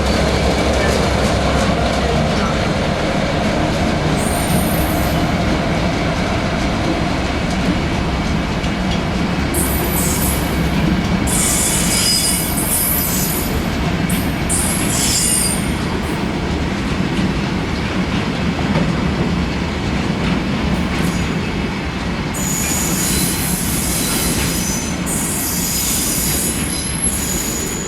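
A train running close by through the station: a steady loud rumble of wheels on track, with high-pitched wheel squeals coming and going several times.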